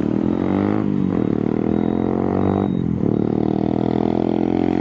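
Modified Suzuki Gixxer motorcycle's single-cylinder engine running loudly through its exhaust. The engine note drops in pitch about a second in and changes again just before three seconds.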